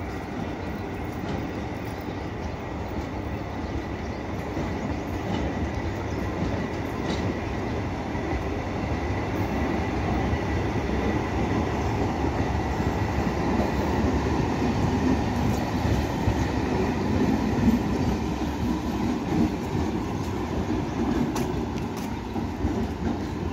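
MEMU electric multiple-unit train running past on the track, a steady noise of wheels on rail. It builds to its loudest about two-thirds of the way through, then eases off.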